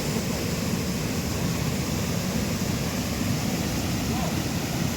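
Floodwater gushing out through a tank's open sluice gates, a steady, heavy rush of water.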